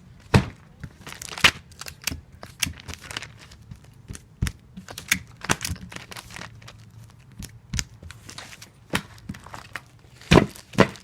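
Tape pulled off a tape dispenser and torn across its cutter while comic books are taped, in quick irregular snaps and rustles, with the loudest two near the end.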